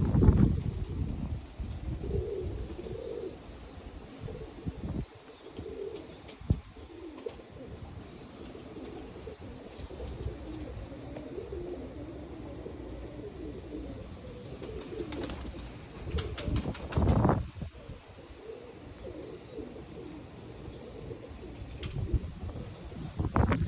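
Pigeons cooing in a wavering, warbling murmur, with wind gusting on the microphone. A short run of clicks comes about fifteen seconds in.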